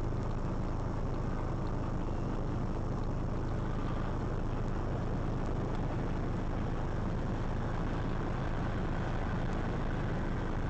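Steady engine and road noise of a vehicle driving, heard from inside the cab through a dashcam, with no impacts.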